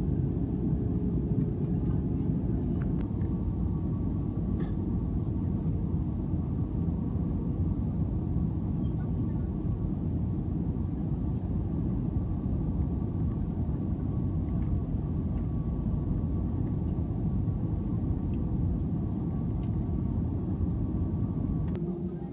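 Steady low rumble of an Airbus A320 heard from inside the passenger cabin, with a faint steady hum over it.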